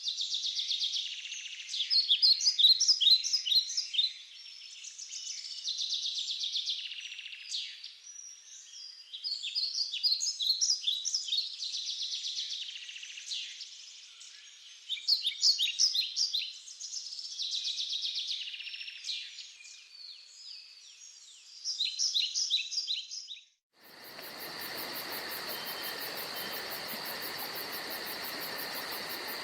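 Songbirds singing in a forest, in repeated bursts of quick chirping phrases. Near the end the recording cuts abruptly to a steady, even chirring of crickets.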